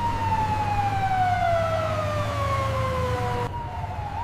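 Emergency vehicle siren wailing, its pitch falling slowly over about three and a half seconds, over a steady low engine hum.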